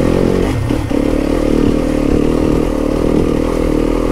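Dirt bike engine running at steady revs under way, with a brief clatter about half a second in.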